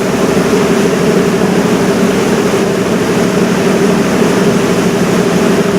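Cruise boat's engine running steadily: an even drone with a constant hum, over a rush of noise.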